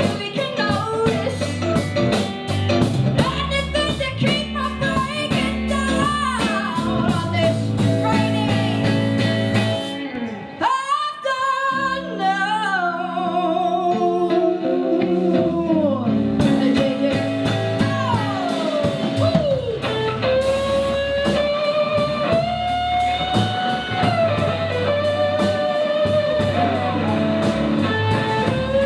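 Live rock band playing: a singing voice over electric guitars, bass and drum kit. About ten seconds in the drums and high cymbals stop for a couple of seconds, leaving the voice and a quieter chord, and then the full band comes back in with a guitar lead.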